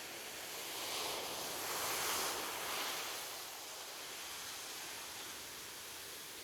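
Ocean waves washing on a beach: a steady hiss of surf, with one wave swelling and breaking about a second in, loudest around two seconds, then fading back.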